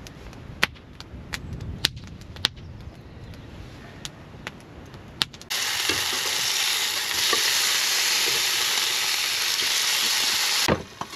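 Wood fire crackling, with sharp pops and snaps every half second or so. About five and a half seconds in, burgers sizzle in a ridged griddle pan on a gas hob: a steady, loud hiss that stops abruptly shortly before the end.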